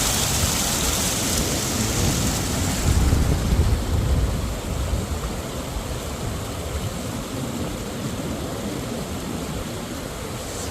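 Mountain stream water rushing, a steady hiss over an uneven low rumble; the upper hiss eases a little about three seconds in.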